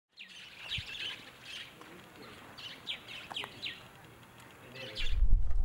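Birds chirping in short, high, falling notes, many in quick succession. A loud low rumble takes over near the end.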